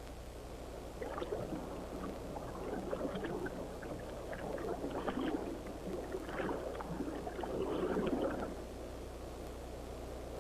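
Wet squelching and gurgling, as of waterlogged mud and water being churned. It comes in irregular spells from about a second in until shortly before the end, over a steady low hum.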